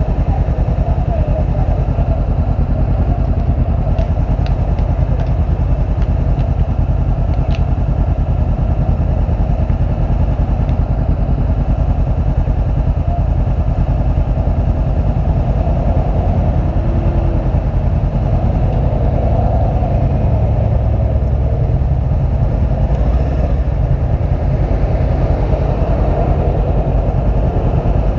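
Motorcycle engine running steadily, with a dense low rumble and a few faint short ticks early on.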